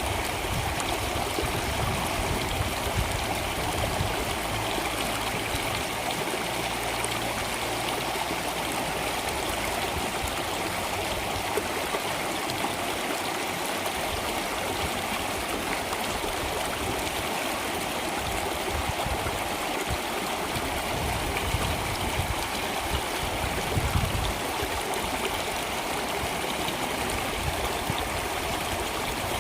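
Water flowing in a stream, a steady, even rush with no breaks.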